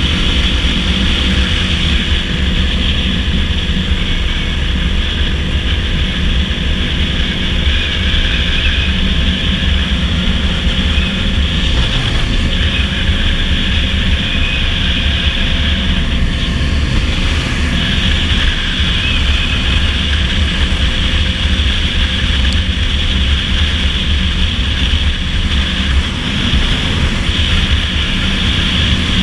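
Dirt bike engine running at a steady cruising speed, under heavy wind rush on the microphone.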